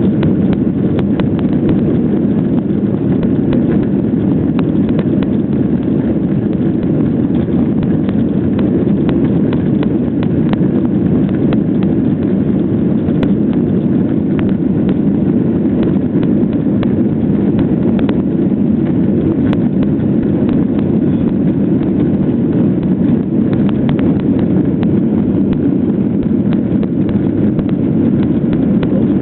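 Jet airliner cabin noise during takeoff: engines at high thrust and rushing air make a steady, loud low roar, with many small clicks and rattles over it.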